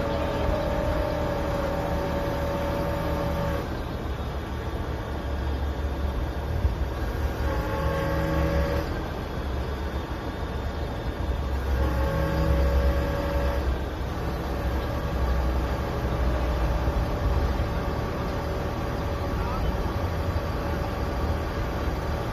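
Truck-mounted crane running: a steady low engine rumble, with a held whine that sounds three times, a few seconds apart.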